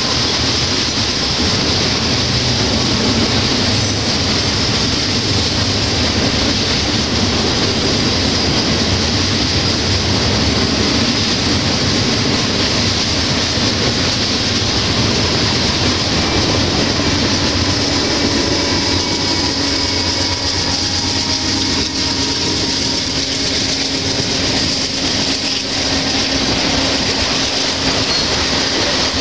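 Freight cars of a passing CN train, tank cars and gondolas, rolling by at speed: a loud, steady rumble and rattle of steel wheels on the rails.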